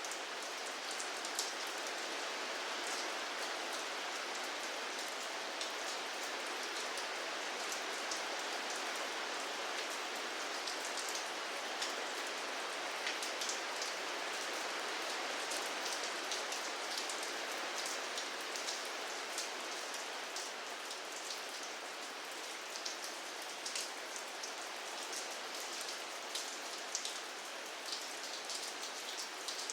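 Steady rainfall: an even hiss of rain with many individual drops pattering and ticking on a surface.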